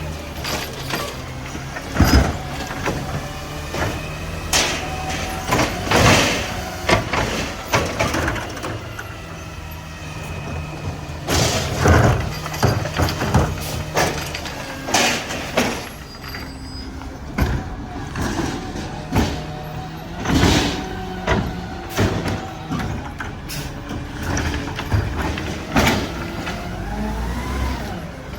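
Mack garbage truck working its packer: the diesel engine revs up and down to drive the hydraulics, with a whining hydraulic pump and many sharp bangs and clanks of trash and metal parts.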